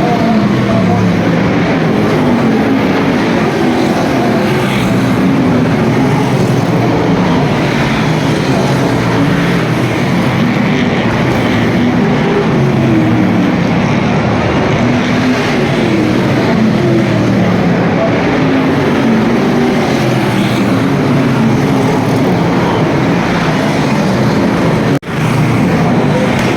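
V8 stock car engines racing, their pitch rising and falling over and over as the cars go round the oval. The sound drops out for a moment near the end, then picks up again.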